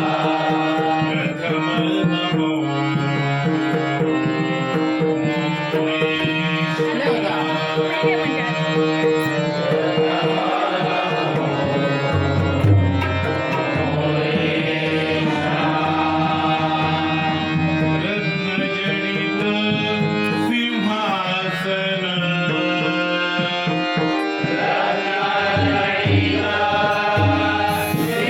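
Marathi devotional bhajan: a voice singing over harmonium drones and melody, with pakhawaj and tabla keeping a steady beat.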